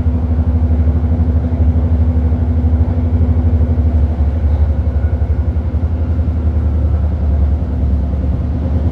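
Running noise inside a BART Fleet of the Future train car in motion: a loud, steady low rumble with a constant hum above it.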